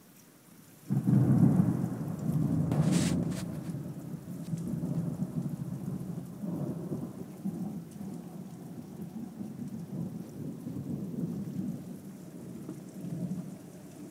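Thunder: a sudden loud clap about a second in with a sharp crackle just after, then a long uneven rumble that slowly dies down, over steady rain.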